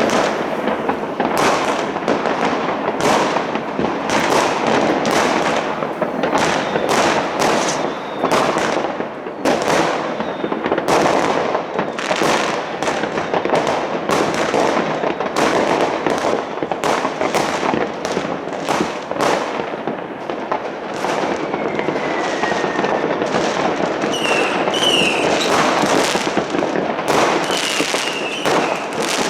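Many fireworks and firecrackers going off at once: a dense, unbroken run of bangs and crackling. A single falling whistle comes about two-thirds of the way through, and several short whistles come near the end.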